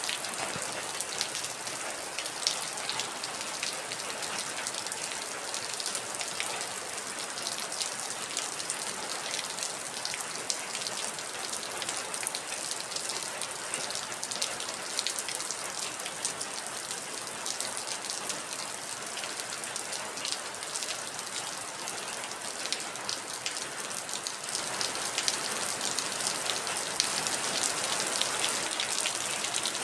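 Heavy rain falling steadily: a dense hiss with many separate drops ticking through it, growing a little louder in the last few seconds.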